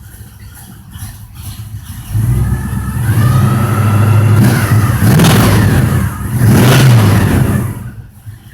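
1976 Pontiac Trans Am's 461 Pontiac V8, a 455 bored .030 over, still cold, running through a 2.5-inch Summit aluminized exhaust. It has a choppy, loping idle from an old-school big cam. About two seconds in it is revved up and held, blipped twice more, then drops back to the loping idle near the end.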